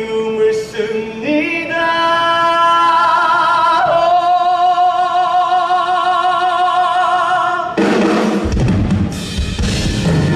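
Live pop ballad performance: a male singer holds a long, wavering sung note over soft accompaniment, then the full band with drums comes in about eight seconds in.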